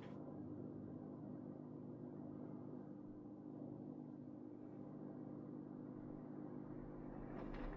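A steady low machine hum with several held tones, unchanged throughout.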